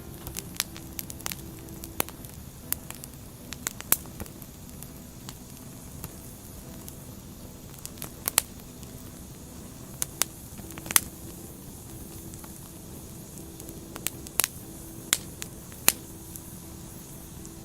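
Burning firewood crackling: irregular sharp pops and snaps, in small clusters, over the fire's steady low hiss.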